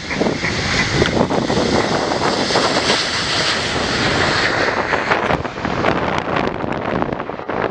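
Jet engines of a Boeing 787-9 airliner at takeoff thrust: a loud, steady rushing noise whose hiss is strongest in the first half and eases off about five seconds in. Wind buffets the microphone throughout.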